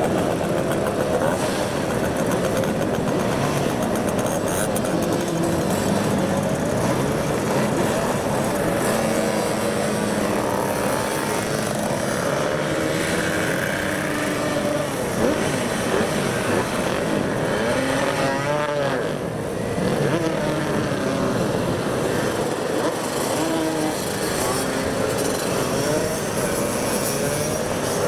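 Many 50cc moped engines running and revving together, several pitches rising and falling over one another.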